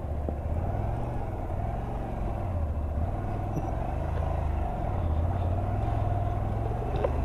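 Honda Varadero 125's small V-twin engine running at low revs, its note rising and falling a little with the throttle.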